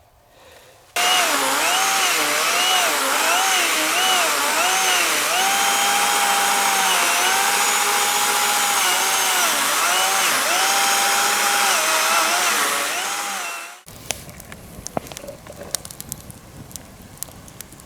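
Chainsaw cutting through a dry log, its whine dipping in pitch again and again as the chain bites and recovering between cuts; it stops abruptly near the end. Then a campfire crackles and pops.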